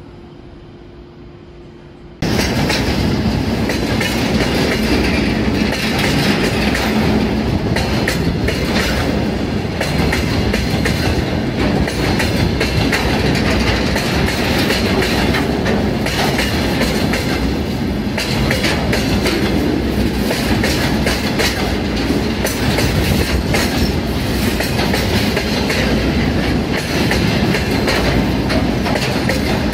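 A long freight train of tank wagons passing close by, its wheels clattering over rail joints in irregular clicks over a loud, steady rumble. It starts suddenly about two seconds in, after a quieter steady hum.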